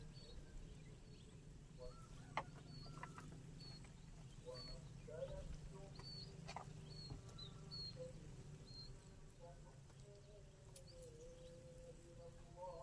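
Faint open-field ambience: a bird repeating a short high chirp about twice a second over a low steady rumble, with faint voices and a couple of sharp clicks.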